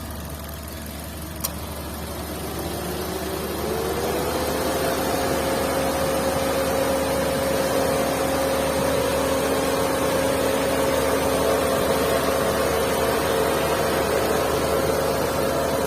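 Maruti Suzuki Swift 2022 engine running, rising in speed about three seconds in and then holding steady with an even whine. This is the heavy engine sound the uploader reports as a problem. A short click comes just before the rise.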